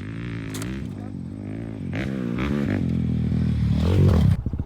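Two-stroke motocross bike engine revving on the track, its pitch rising and falling and growing louder before it cuts off suddenly near the end, as the engine locks up with a fried piston.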